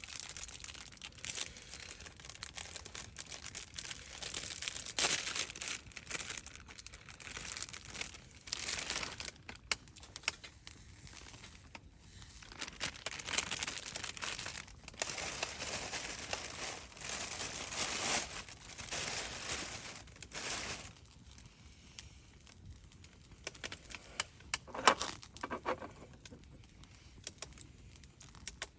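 Crinkly wrapping being handled, crumpled and torn by hand, in irregular rustling bursts with pauses between them.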